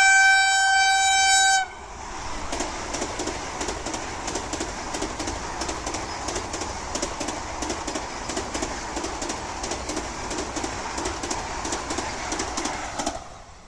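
Express train horn blaring as one steady high note, cutting off about two seconds in. Then the train rushes past at speed, with a fast, even clatter of wheels over rail joints that stops abruptly near the end.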